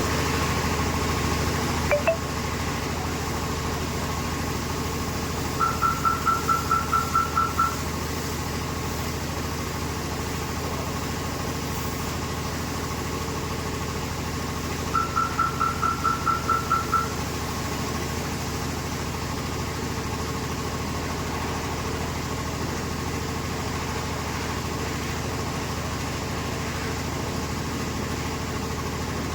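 A steady low machine hum, with two runs of rapid high-pitched beeps of about five a second, each lasting about two seconds, and a brief chirp about two seconds in.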